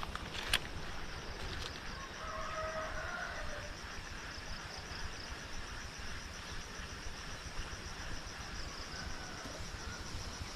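Outdoor ambience: a steady, evenly pulsing high insect buzz, with a short bird call about two seconds in.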